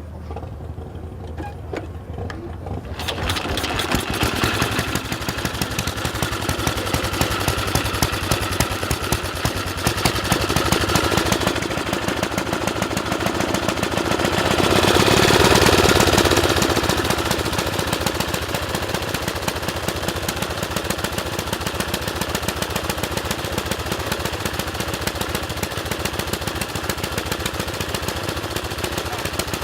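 Antique motorcycle engine running with rapid, even firing beats, getting louder about three seconds in and swelling in loudness around the middle.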